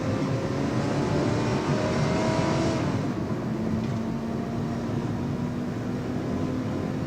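Car engine running hard during a chase, its pitch climbing slowly over the first few seconds and then holding steady, over a dense rush of road noise.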